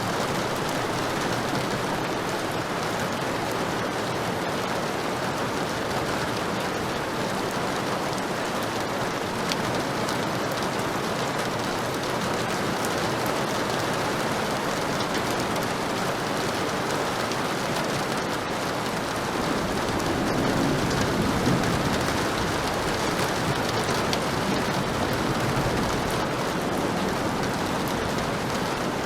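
Heavy rain falling steadily. A low rumble of thunder swells about two-thirds of the way through.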